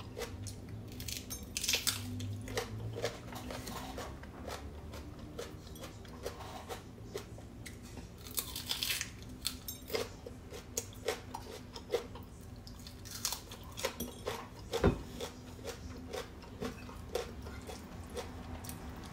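Close-miked chewing and crunching of a green bell pepper (paprika), with several crisp crunches. There is one sharp knock about three-quarters of the way through.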